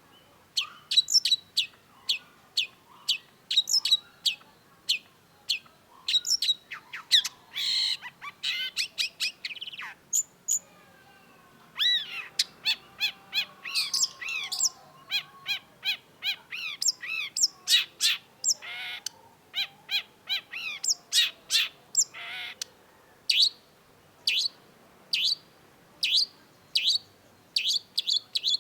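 Long-tailed shrike singing: a fast series of sharp, downward-sliding whistled notes broken by a few harsh buzzy notes, with a stretch of varied warbling in the middle after a brief pause.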